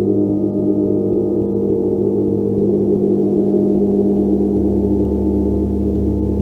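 A large gong played continuously, its dense, sustained wash of low, overlapping tones pulsing and shimmering without any distinct strike; the lowest tones swell about four seconds in.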